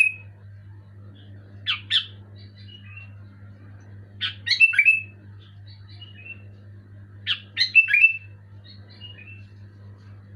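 Sooty-headed bulbul calling: three loud bursts of harsh, chattering notes about three seconds apart, each trailing into a few softer notes, over a steady low hum.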